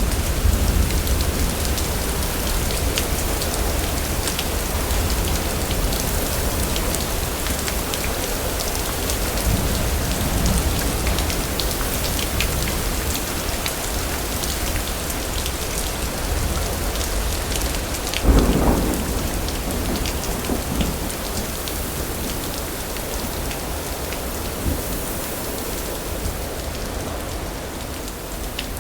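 Steady heavy rain with thunder: a low rumble at the start, and a sharp clap of thunder about two-thirds of the way through that rolls away over a couple of seconds.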